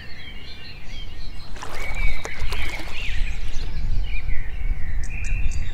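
Outdoor ambience: small birds chirping and twittering over a steady low rumble, which grows louder about a second and a half in.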